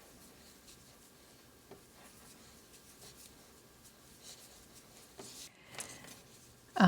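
Faint rustle and rubbing of yarn drawn through loops by a crochet hook, with a few small ticks and clicks, as a decrease stitch is worked.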